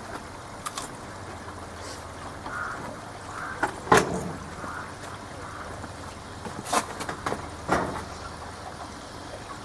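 Hoover Logic washing machine running in its last rinse: a steady low hum, with a few sharp crackles and clicks spread through it, the loudest about four seconds in.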